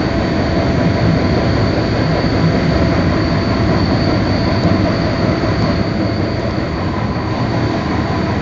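Passenger train running at speed, heard from inside the carriage: a steady rumble and rush of wheels on the rails with a thin steady high tone over it.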